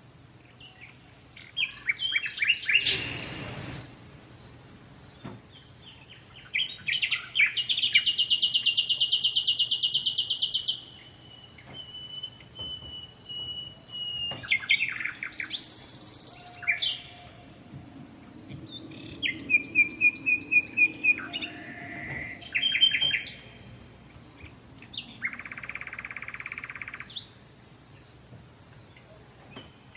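Several songbirds singing and calling in turn: chirps, short trills and a long rapid buzzing trill, with a faint steady high tone running underneath. A brief rushing noise sounds about three seconds in.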